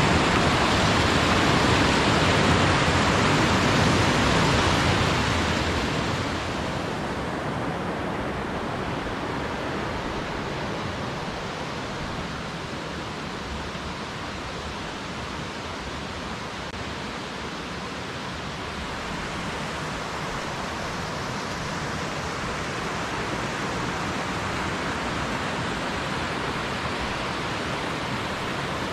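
Steady rush of a mountain headwater stream, louder for the first five or six seconds, then dropping to a softer, even rush.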